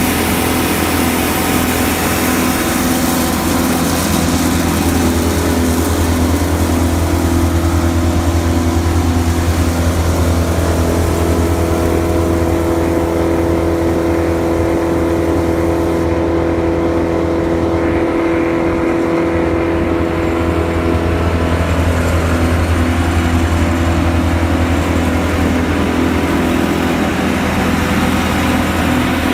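Morbark Hurricane 2400XL wood chipper's engine running steadily, with its pitch shifting a little in the middle before settling back.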